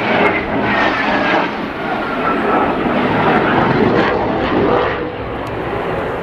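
Jet engines of the Swiss Team's Northrop F-5E Tiger II fighters roaring past, with a thin whine that falls in pitch as the jets go by.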